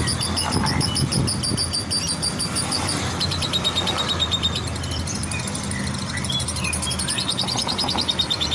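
Lovebird singing a long, fast, chattering trill, in runs broken by short pauses, over a steady low rumble.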